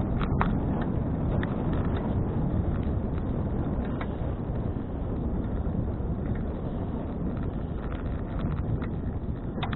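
Wind buffeting an action camera's microphone on a moving bicycle: a steady low rush, with a few scattered light clicks and rattles.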